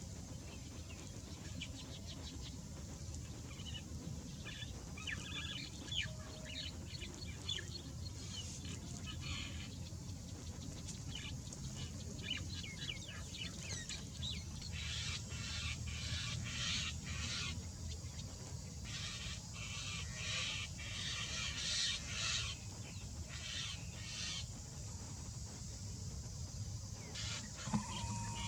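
Birds chirping: many short, high calls in quick clusters that come and go, over a steady low rumble.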